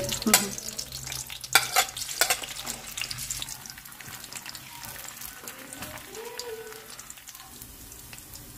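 Sliced squid balls sizzling in hot oil in a pan, with a few sharp knocks against the pan in the first couple of seconds. The sizzle settles to a softer, steady hiss after about three seconds.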